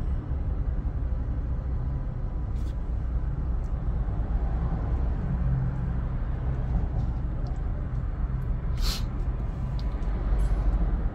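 A car driving, a steady low rumble of engine and road noise, with a short sharp click about nine seconds in.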